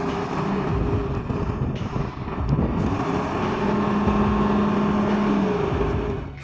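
Heavy Kamaz truck's diesel engine running, revving up and back down briefly a little after two seconds in.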